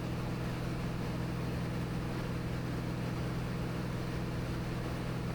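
Steady drone of a Cirrus SR22T's turbocharged six-cylinder engine and four-blade propeller, heard inside the cabin in level flight.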